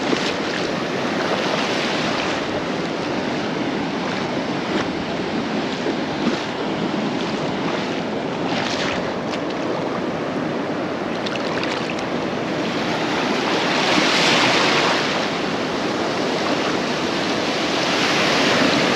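Ocean surf breaking and washing up on a sandy beach, a steady rush that swells louder a few times, with wind on the microphone.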